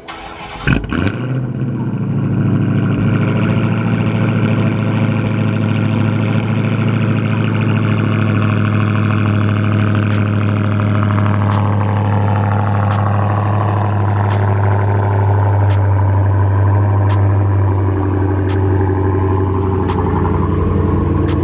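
Dodge Hellcat's supercharged 6.2-litre HEMI V8 cold-starting: it cranks and fires with a loud burst about half a second in, then settles into a steady, loud high cold idle. Faint light ticks come about every second and a half from about ten seconds in.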